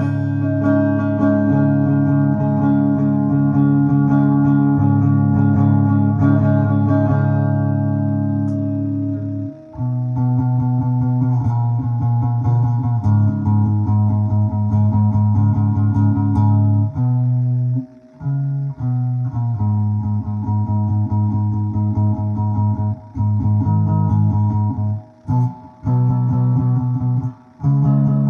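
Guitar music: a song with plucked guitar and bass, starting on long held chords and turning to a rhythmic part about ten seconds in, with a few brief stops later on.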